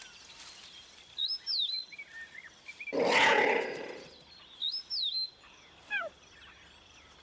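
Wild birds calling in short whistled, gliding chirps, with a harsh, noisy animal call lasting about a second a little after three seconds in, the loudest sound here.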